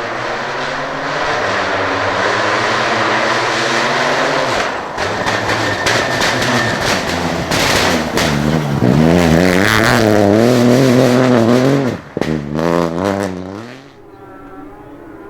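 Rally car engine at full throttle on a special stage, revving hard with rising and falling pitch through gear changes and sharp cracks and pops. The revs waver quickly as it works through a section, then cut off suddenly, flare once more and fade to a fainter steady engine tone near the end.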